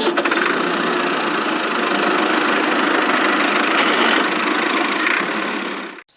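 A motor running steadily with a fast, even buzz that cuts off abruptly about six seconds in.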